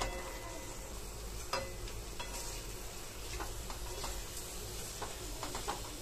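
Raw chicken pieces sizzling in oil and masala paste in a metal kadhai, freshly added and starting to fry, while a wooden spatula stirs them, scraping and knocking against the pan a few times.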